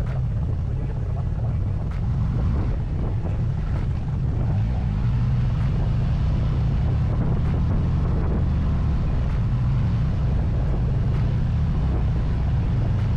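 Harley-Davidson Street Glide's V-twin engine running steadily at cruising speed, a deep even rumble, with wind rushing over the microphone.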